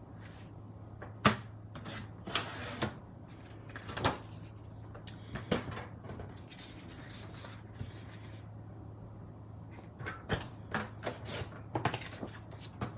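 Scattered taps, clicks and light knocks, with a short rustle, as paper and card pieces are handled and set down on a craft table. A denser run of taps comes near the end, and a steady low hum sits underneath.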